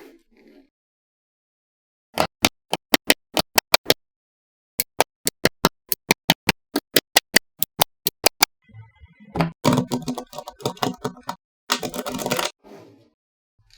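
Small magnetic balls snapping together in quick sharp clicks, two runs of about a dozen clicks each, several a second, followed near the end by a denser rattling clatter of the balls.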